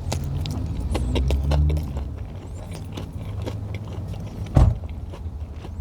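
A person chewing a mouthful of chicken wrap, with small clicks and crackles of mouth and wrapper noise over a steady low hum. A single thump comes about four and a half seconds in.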